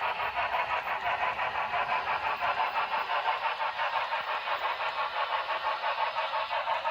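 HO scale model train running, with a fast, even rhythmic clatter of about four to five beats a second.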